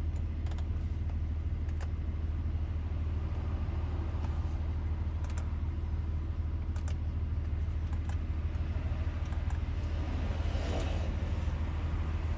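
Audi Q7's engine idling with a steady low hum, heard from inside the cabin, with a few faint clicks over it.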